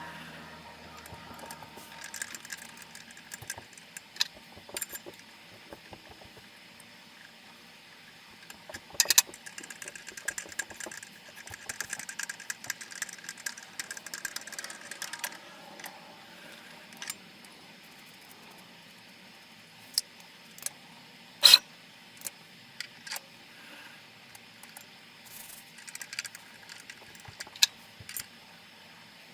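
Hand tapping at a benchtop mini-mill: scattered light metallic clicks and knocks from the tap wrench and tools, with a stretch of rubbing and scraping in the middle and one sharp click about two-thirds of the way through.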